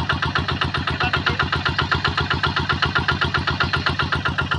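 Combine harvester's engine running steadily, with a fast, even pulse of about ten beats a second.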